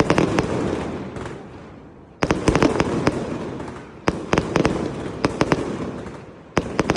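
Aerial fireworks bursting in four volleys about two seconds apart. Each opens with a loud bang, then a quick string of sharp cracks, then a fading rumble.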